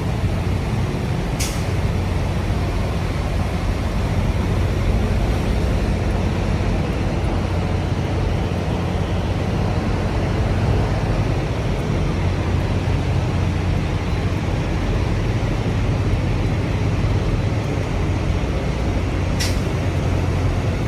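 Steady low rumble of idling diesel truck engines, with two brief sharp hisses, one near the start and one near the end.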